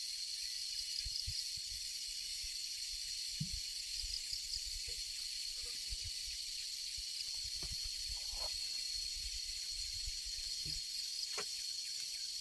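Insects droning steadily at a high pitch, with a few faint low knocks and thuds now and then.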